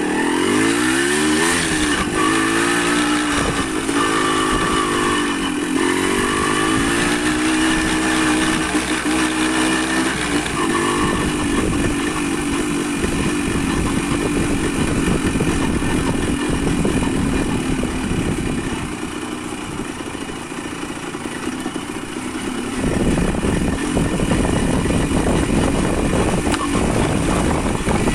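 Motorcycle engine on the move, its pitch climbing and dropping several times as it accelerates and shifts through gears, then giving way to a steady rushing noise that eases for a few seconds and grows louder again near the end.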